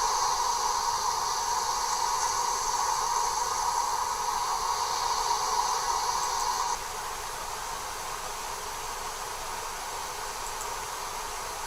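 A steady hissing drone with no rhythm. About seven seconds in it drops to a lower level and its highest part fades out.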